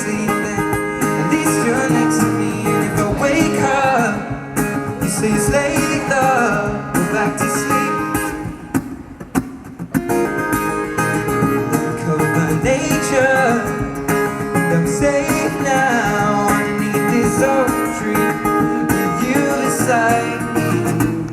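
Live music: acoustic guitar with a male voice singing. The music dips quieter for about a second around nine seconds in.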